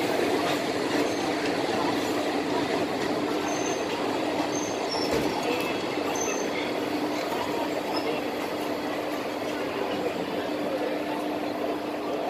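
Indian Railways passenger coaches rolling past a station platform: a steady rumble of wheels on rail with a constant hum and a few brief high squeaks.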